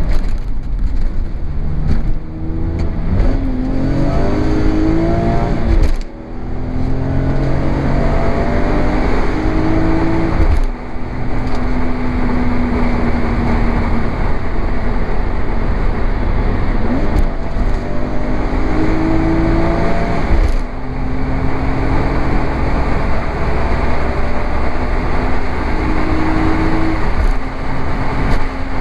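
BMW E46 M3's 3.2-litre S54 straight-six heard from inside the cabin, pulling up through the gears. The engine note climbs in pitch, breaks briefly at each upshift of the SMG gearbox, then settles to a steady cruise before climbing again.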